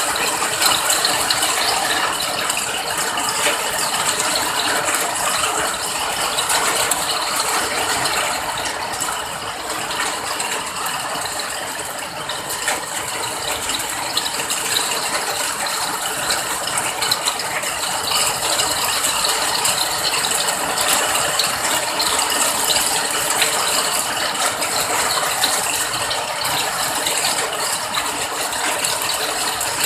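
Steady rain: a dense, unbroken patter of many small drop impacts.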